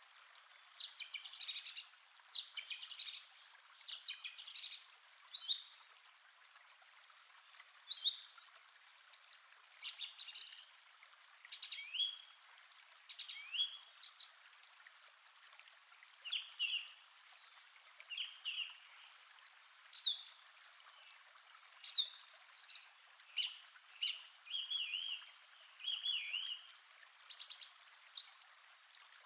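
Birds singing and chirping in short phrases, one every second or two, over a faint steady hiss.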